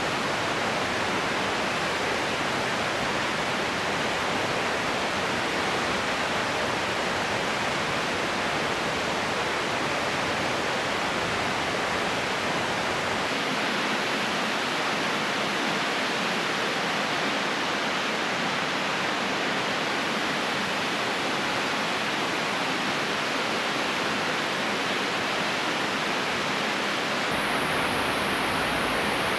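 Waterfall rushing: a steady, even roar of falling water. Its lowest rumble drops away about thirteen seconds in and comes back a couple of seconds before the end.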